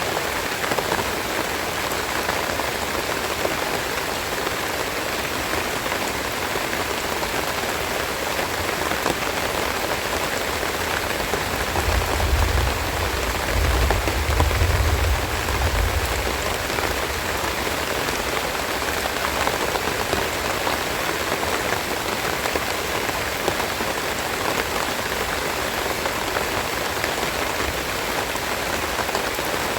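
Steady rain falling, a dense even patter of drops. About twelve seconds in, a low rumble swells for a few seconds, then fades back into the rain.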